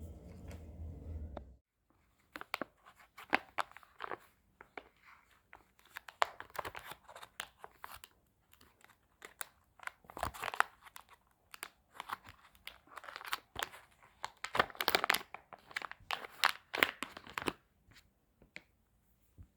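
Irregular crinkling, crackling and tearing, like plastic packaging being handled and torn open, starting about two seconds in and stopping shortly before the end.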